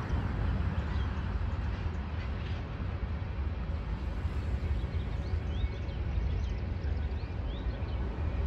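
Distant freight train of tank cars and covered hoppers rolling past: a steady low rumble. A few short bird chirps come through in the middle.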